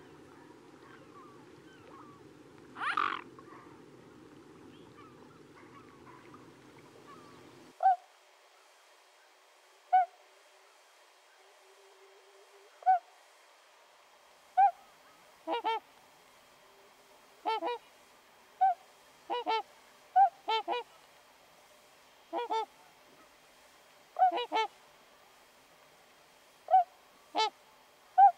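A bird's short calls, single and in quick pairs, repeating every second or two, over a low background hum that stops suddenly about a quarter of the way in.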